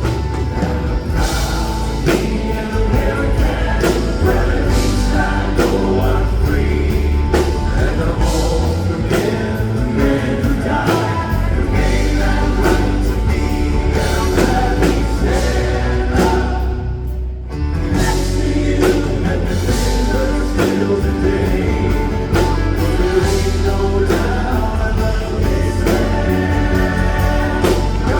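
Southern gospel male quartet singing in close harmony over a live band with drums, with a short break in the music about seventeen seconds in.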